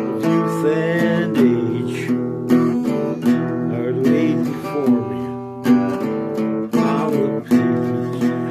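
Acoustic guitar strummed and plucked, playing a song, with chord strokes every second or so.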